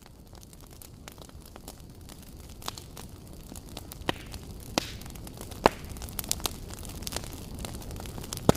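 Wood campfire crackling, with sharp pops over a low, steady rumble, fading in and growing louder. The loudest pops come a little past halfway and near the end.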